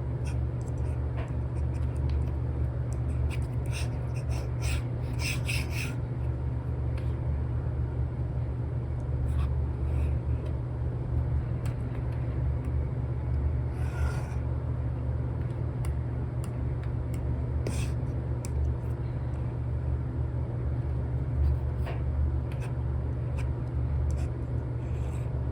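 Apple Pencil with an Elecom nib scratching and tapping on an iPad's paper-like screen film in short, scattered strokes, over a steady low rumble.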